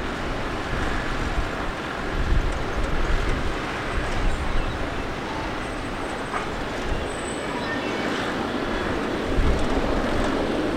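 Steady roar of a distant jet airliner's engines, with wind gusting on the microphone.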